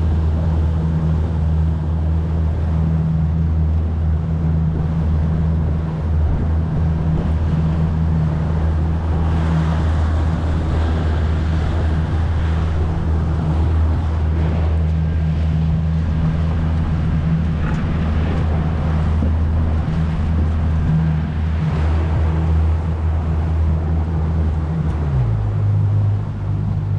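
Motorboat engine running at a steady speed over a hiss of water and wind, then throttled back near the end, when its pitch drops suddenly.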